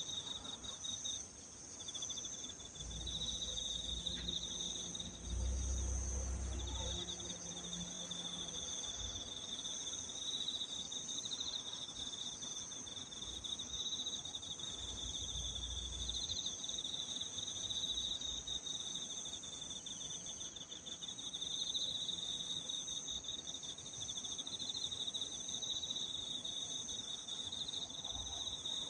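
A steady chorus of crickets and other insects: two high, continuous trills layered together, one pulsing and one even. A low rumble comes in under it about three seconds in and fades by eight seconds, and again briefly around fifteen seconds.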